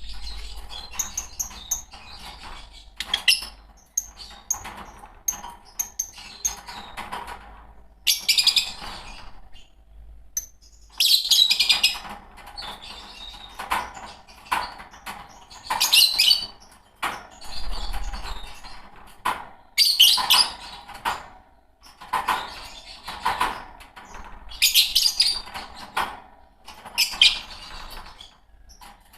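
A pair of Fischer's lovebirds chirping: shrill bursts of rapid chirps every few seconds, with softer chattering in between.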